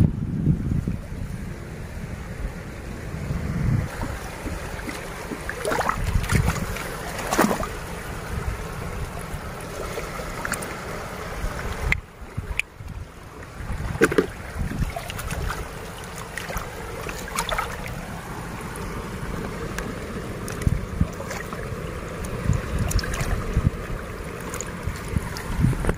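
Wind buffeting the microphone over the wash of sea water at the shore, with scattered short knocks and splashes throughout.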